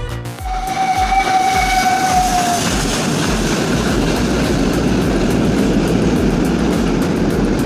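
A horn sounds one held note for about two seconds, sagging slightly in pitch, over the heavy rumble of a large vehicle running, which carries on after the horn stops.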